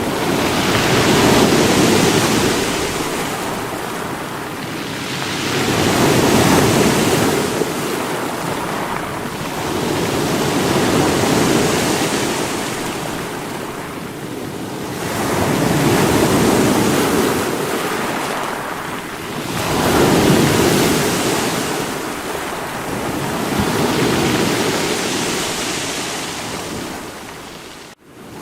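Sea waves breaking against rocks, surging up about every five seconds and washing back in between. The sound drops out abruptly for a moment just before the end.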